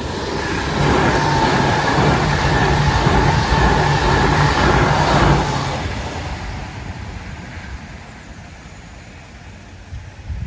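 ED161 Pesa Dart electric multiple unit passing over the crossing at speed: a rush of wheel and rail noise with a steady electric hum, loud for about five seconds, then fading as it moves away.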